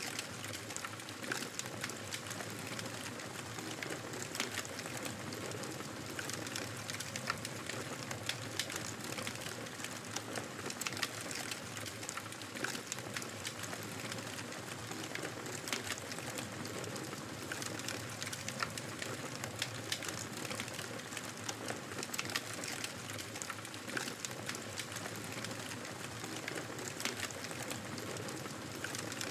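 Wood fire crackling steadily, with a constant low hiss and many small irregular pops and snaps.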